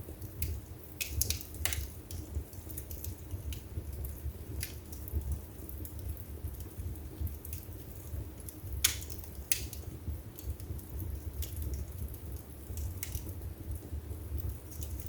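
Wood fire burning in a fireplace: a low steady rumble of the flames under scattered sharp crackles and pops, the loudest about nine seconds in.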